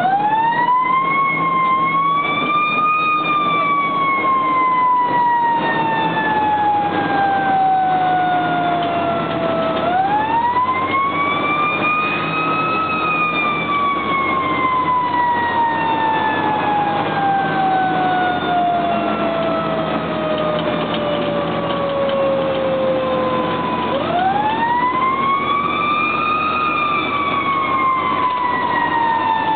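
Fire engine siren wailing: it rises three times, near the start, about ten seconds in and near the end, and each time slowly falls in pitch before the next rise. The truck's engine runs steadily underneath.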